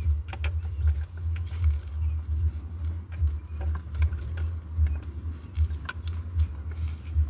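Egg incubator's fan running with a low, wavering hum, with scattered small clicks and a few faint peeps.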